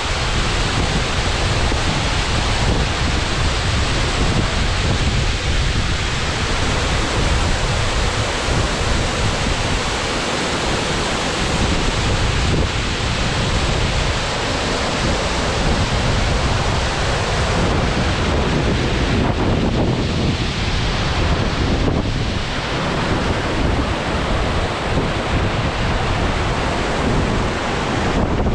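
Abe no Otaki, a plunge waterfall about 45 m high, with its water falling in a loud, steady rush and a heavy low rumble underneath.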